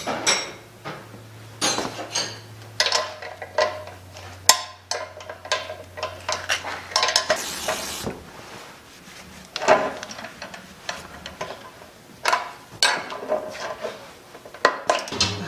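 Irregular metallic clinks and knocks of tools being handled on machinery being serviced. A faint low hum runs under the first several seconds, and there is a brief hiss about eight seconds in.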